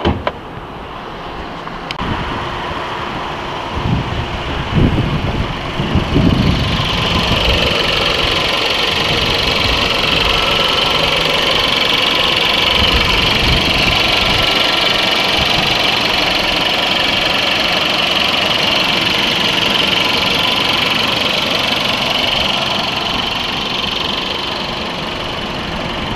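A few low thumps, then an engine running steadily.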